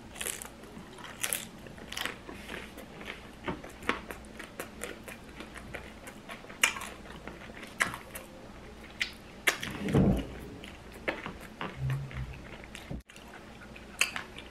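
Close-up chewing of a crunchy hard taco shell: irregular crisp crackles and clicks as it is bitten and chewed, with one louder low thump about ten seconds in.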